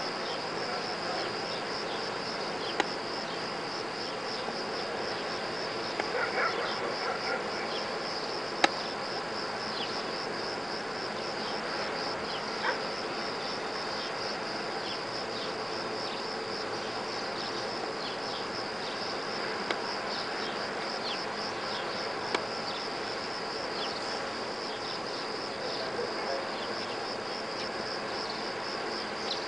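Insects chirping in a steady, evenly pulsing high-pitched chorus, with a few sharp clicks scattered through it.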